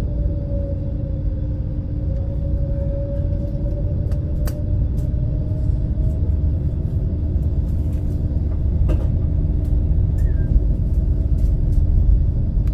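Engines of a high-speed passenger boat heard inside its cabin: a steady low rumble with a constant hum and a second tone that drifts slightly in pitch. A couple of faint clicks are heard about four and nine seconds in.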